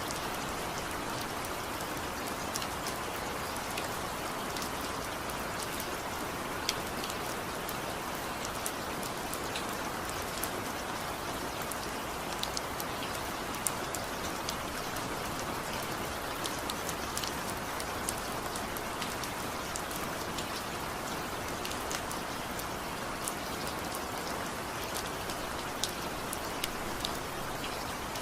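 Steady rain: an even hiss, with individual drops ticking sharply now and then.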